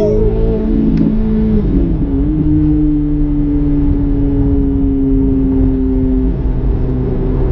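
A C8 Corvette Z06's 5.5-litre flat-plane-crank V8 and exhaust on the move. The engine note climbs a little, breaks and dips about two seconds in, holds a steady pitch, then drops slightly near the end.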